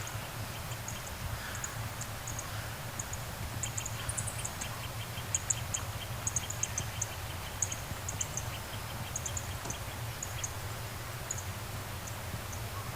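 Small birds calling, with many short high chirps repeated through most of the stretch and runs of quick lower ticks in the middle, over a steady low rumble.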